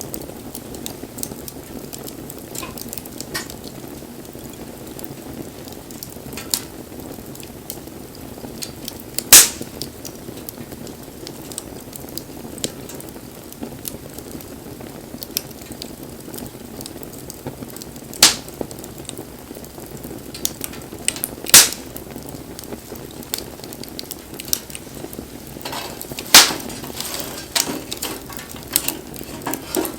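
Wood fire burning: a steady rush of flame with scattered small crackles and four loud, sharp pops.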